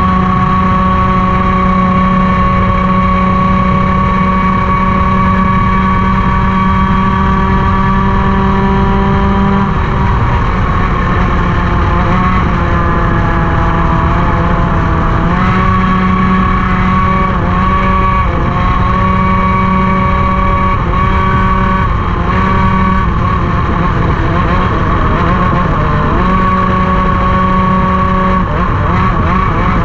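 Racing kart engine running near full revs, its pitch held steady for about ten seconds and then dipping and climbing back several times as the throttle is lifted for corners and reapplied.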